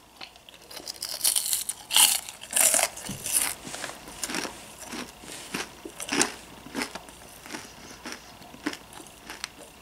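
Close-up crunching of a mouthful of candy-coated popcorn being chewed, with some crinkling of its plastic bag: irregular crunches, the biggest in the first few seconds, then smaller, quicker crackles.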